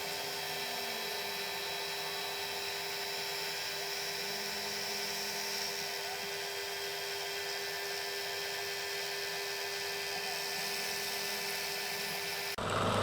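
Milling machine spindle running steadily with a high-pitched whine as the cutter goes round the part on a finishing pass. Near the end it gives way abruptly to a louder, lower machine sound.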